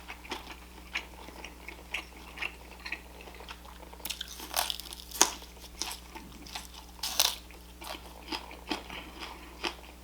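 A person chewing and biting crunchy food close to the microphone: a steady run of crackly crunches, with the loudest bites about four to five seconds in and again around seven seconds.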